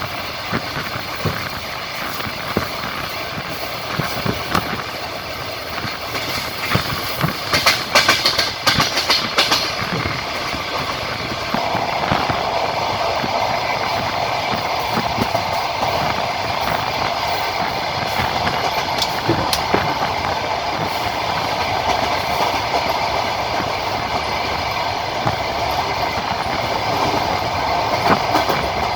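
Passenger train running along the track, wheels knocking over rail joints, with a quick run of louder clacks about a quarter of the way through. About twelve seconds in, a steady hum comes in over the running noise and holds.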